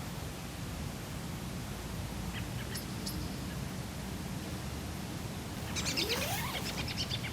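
Background noise of the woods with a few faint, short high chirps. Near the end comes a scratchy call from a wild animal that glides upward in pitch.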